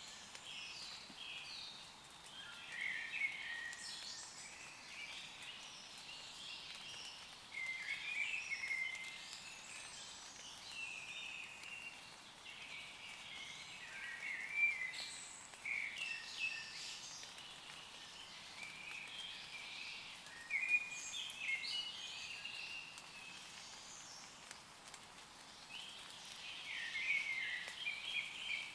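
Woodland songbirds singing short, varied phrases every few seconds over a faint, steady patter of rain on leaves.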